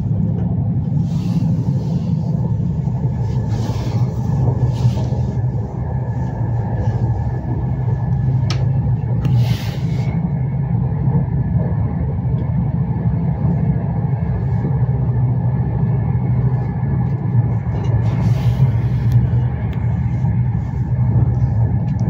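Intercity train running at speed, heard from inside a passenger car: a steady low rumble of the wheels on the rails, with a few short hisses now and then.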